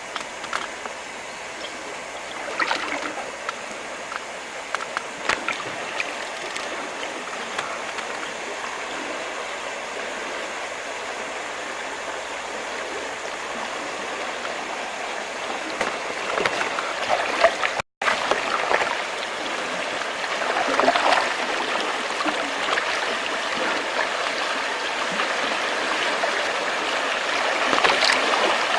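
Flowing water rushing steadily, like a stream or riffle, with a few brief splashes. It grows gradually louder and cuts out for an instant a little past the middle.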